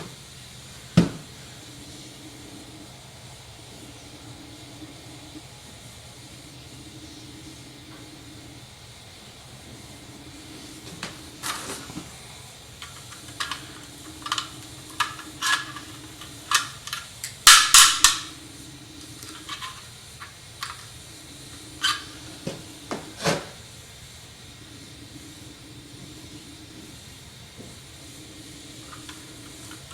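A torch hisses steadily while a hammer gives a hot steel rivet a series of light, irregularly spaced taps to peen it over. The taps start about a third of the way in, with a quick flurry about halfway.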